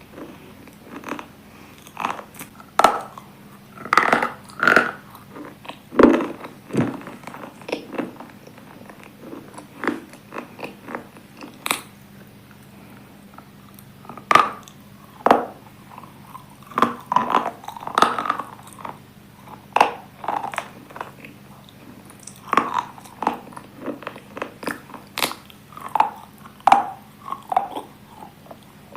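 Close-up biting and chewing of hard, brittle pieces such as slate pencil or chalk-like cubes: a run of irregular sharp crunches with quieter grinding between them, over a faint steady hum.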